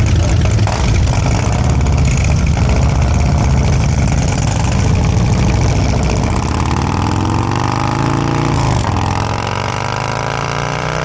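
Motorcycle engine running, revving up in pitch about six seconds in and easing back down near nine seconds.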